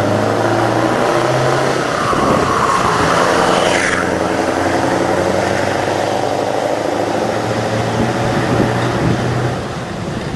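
Scania V8 diesel truck engine running as the truck pulls away. The engine note shifts about two seconds in, a higher rising sound peaks and breaks off about four seconds in, and it gets a little quieter near the end.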